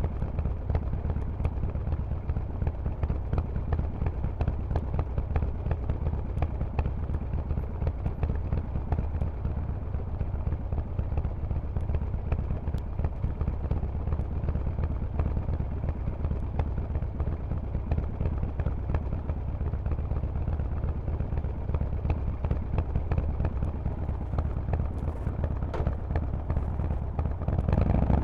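Harley-Davidson Forty-Eight's air-cooled V-twin running through a loud Vance & Hines aftermarket exhaust, a steady low-pitched, rapidly pulsing exhaust note held at an even engine speed with no revving.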